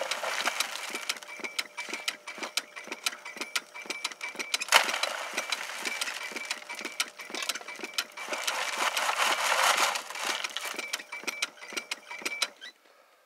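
Keene bellows drywasher running: its engine-driven bellows make a rapid, even mechanical clatter throughout. Two longer spells of gritty rushing noise, about five and eight seconds in, come from material running through the machine.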